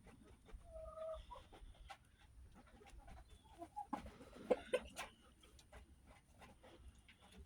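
Backyard chickens clucking in short calls amid many small sharp clicks of pecking at scratch grain, with a louder cluster of calls about four to five seconds in.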